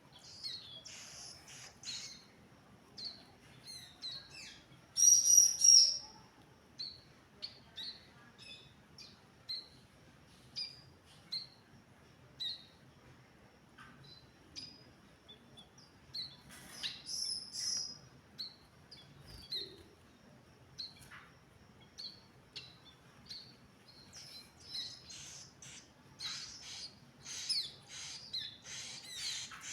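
Ciblek gunung giving short, high chirps again and again, with a loud burst of calls about five seconds in and quicker chirping near the end.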